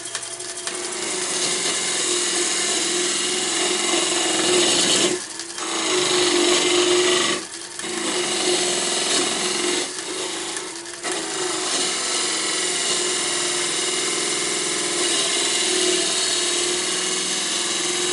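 Wood lathe running with a turning tool cutting into the spinning wood of a box: a steady hiss of shaving wood over the lathe's hum. The cut drops out briefly three times as the tool comes off the wood.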